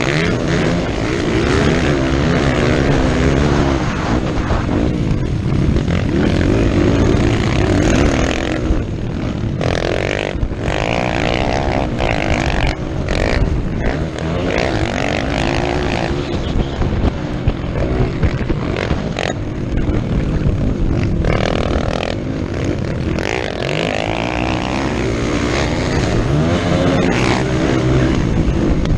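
Motocross dirt bike engine revving hard, its pitch climbing and dropping again and again as the rider accelerates, shifts and backs off.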